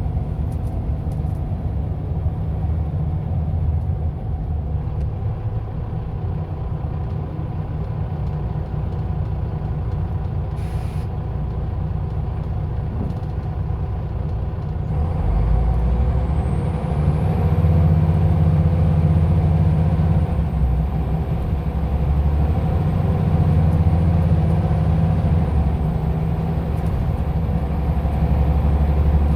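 Scania OmniLink I city bus engine running with a low, steady drone, with one short air-brake hiss about eleven seconds in. About halfway through the engine grows louder and heavier, as under load pulling away.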